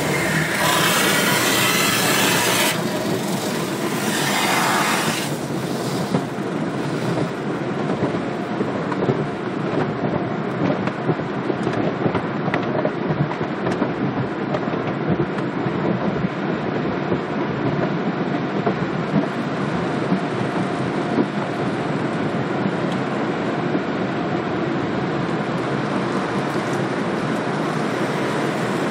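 Automatic car wash machinery running: a hiss of spraying water for the first five seconds or so, then a steady rumble and rapid clatter of the wash equipment.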